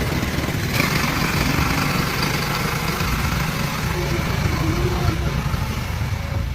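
A heavy vehicle's engine running steadily under a low rumble.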